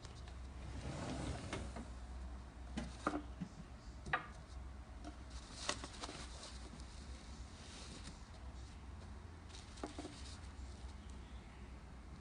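Faint room sound: a low steady hum with a few scattered light clicks and knocks.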